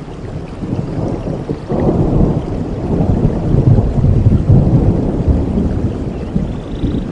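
Rolling thunder over steady heavy rain; the low rumble swells about two seconds in and peaks midway before easing slightly.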